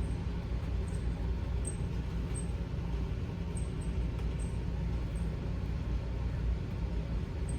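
Steady low rumble of room background noise, with faint light ticks scattered every second or so.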